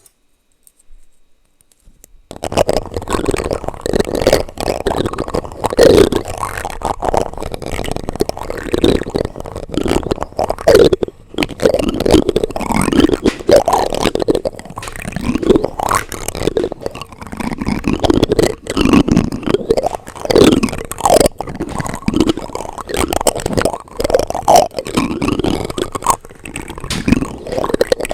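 Plastic utensils scraped and rubbed directly on a microphone: a dense, loud run of scratchy rubbing and small clicks. It starts about two seconds in after near silence.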